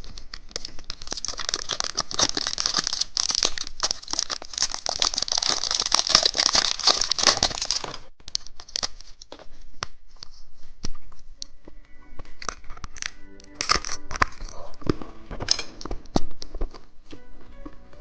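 Plastic candy wrapper crinkling and tearing, dense for about the first eight seconds, then sparser crinkles and clicks. Soft background music plays underneath.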